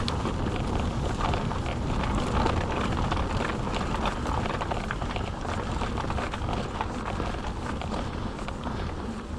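Mountain bike riding over a rough trail: steady tyre noise with many small clicks and rattles from the bike, and wind buffeting the microphone.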